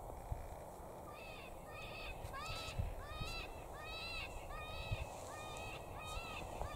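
A bird calling over and over: a steady series of short, harsh, crow-like caws, about two a second, starting about a second in.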